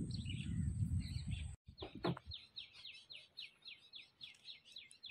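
A bird calling a rapid, regular series of short falling notes, about four a second, starting about a second and a half in. Before that, a low rumble lies under a few scattered high calls.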